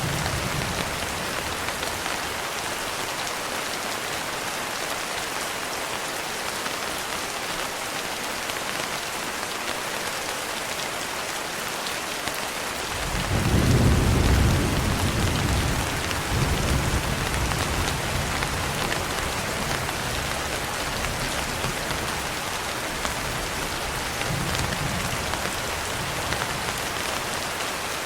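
Steady rain falling, with a low roll of thunder about halfway through that swells, peaks briefly and dies away in weaker rumbles, and one more faint rumble near the end.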